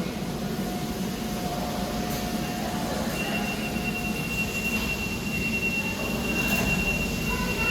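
Subway train running, a steady rumble with a high, steady metallic squeal of the wheels that starts about three seconds in and holds.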